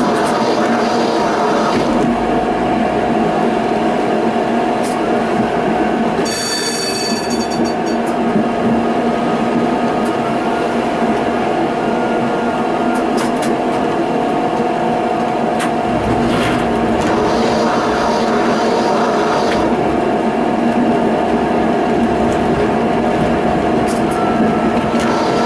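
Tram running along its line: steady rolling noise of wheels on rails with a constant hum from the running gear. About six seconds in there is a brief higher-pitched sound.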